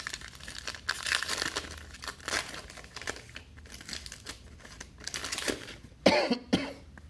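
Crinkling and rustling of wrappers or paper being handled, in irregular short bursts. A brief vocal sound, cough-like, comes about six seconds in.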